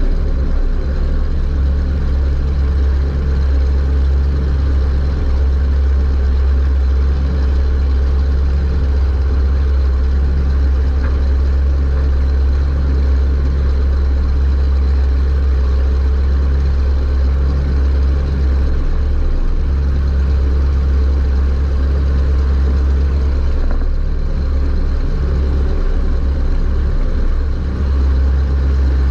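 Super Stock race car's engine running hard, heard from inside the car: a loud, steady drone with a few brief dips in the second half.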